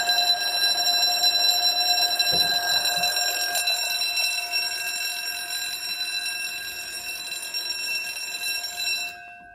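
Level crossing warning alarm sounding steadily, growing slightly fainter and cutting off near the end.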